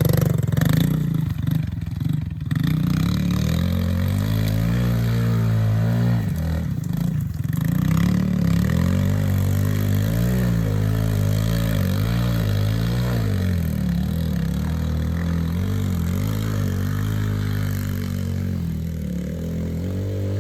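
Yamaha TT-R110 pit bike's small four-stroke single-cylinder engine under way, revving up and easing off repeatedly, its pitch rising and falling with the throttle.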